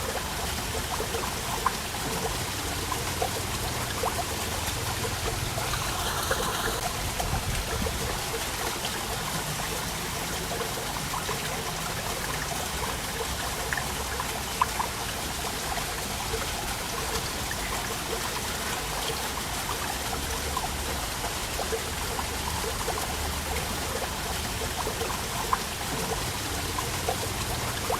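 Waterfall water flowing and splashing steadily, with many small drips and splashes throughout.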